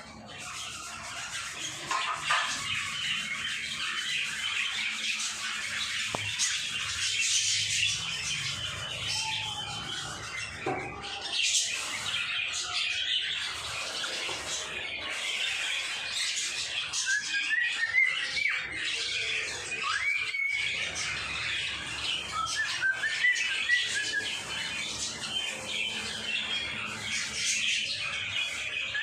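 Pet birds calling continuously, a busy mix of squawks and chirps overlapping one another, with runs of quick rising chirps in the second half.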